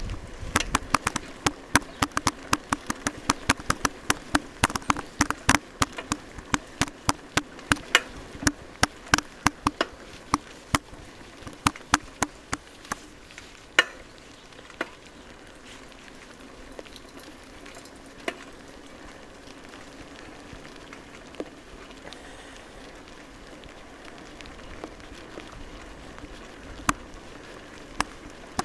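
Large raindrops striking close to the microphone in sharp, irregular ticks, several a second at first and thinning out about halfway, over a faint steady hum.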